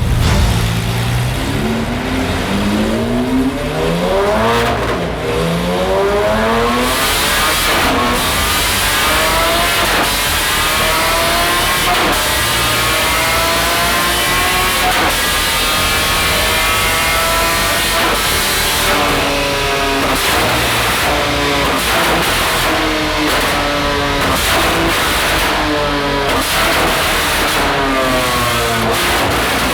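Lamborghini Aventador SVJ's 6.5-litre V12 running hard through a Capristo exhaust under dyno load, its pitch climbing in several short rises, then one long steady climb lasting about ten seconds, then repeated shorter rev rises and drops near the end.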